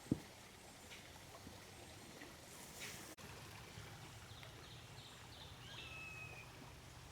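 Faint steady flow of a creek. A soft thump comes just after the start, and a bird gives a few short chirps and then a held whistle in the second half.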